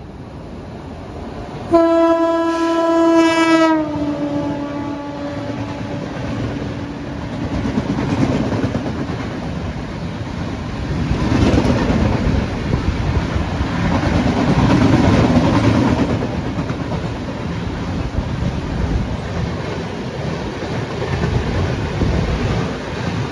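Indian Railways express train passing close by: the locomotive's horn sounds one long blast about two seconds in, its pitch dropping as it goes past, then the rumble and clickety-clack of the passenger coaches rushing by at speed.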